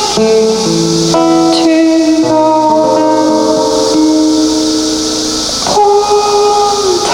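Live band music: sustained, held chords that change every second or two, over a steady high hiss.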